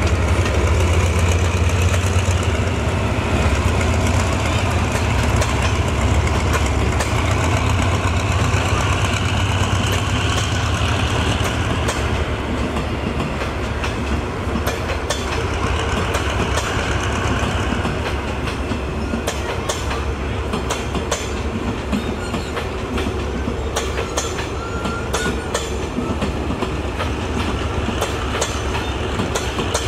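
Diesel locomotive hauling a train of empty passenger coaches past. A heavy low rumble is strongest in the first dozen seconds, then wheels click over the rail joints as the coaches roll by and draw away.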